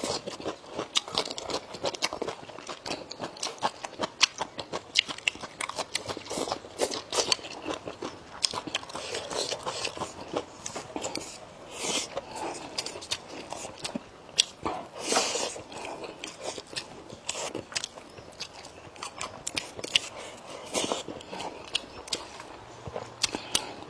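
Close-up sounds of a person eating: steady, irregular crunching and chewing of food with frequent wet clicks of the mouth.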